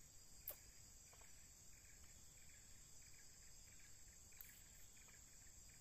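Faint forest insects: a steady high-pitched insect drone with short, rapidly repeated chirps over it, and a small click about half a second in.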